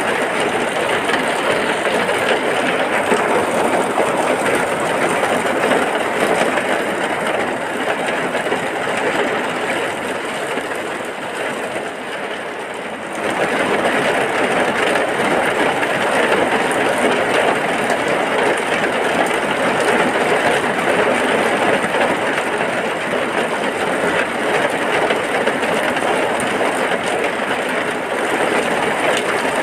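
Heavy rain pouring steadily, a dense even hiss. It eases slightly, then comes back abruptly at full strength about thirteen seconds in.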